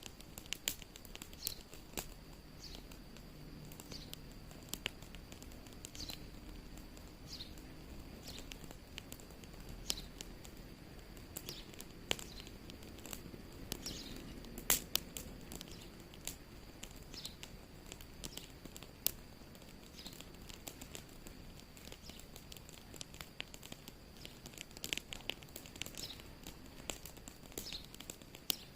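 Wood fire crackling, with irregular sharp pops and snaps over a low rumble of burning.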